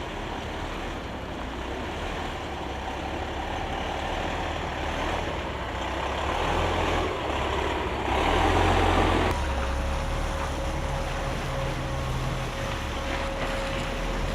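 Heavy diesel truck engine running steadily. About eight seconds in, a loud rushing hiss swells and then cuts off suddenly, followed by a steady high whine.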